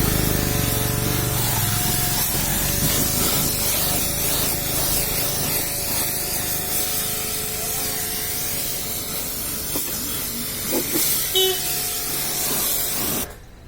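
A high-pressure washer jet spraying water onto a car with a steady hiss, cutting off suddenly near the end.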